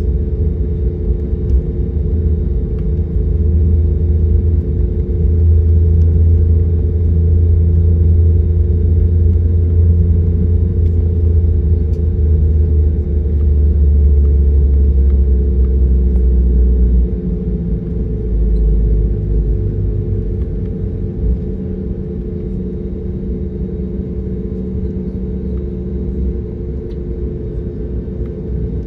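Airliner cabin noise: the engines drone steadily with a few held tones over a deep rumble, and the rumble eases off sharply about seventeen seconds in.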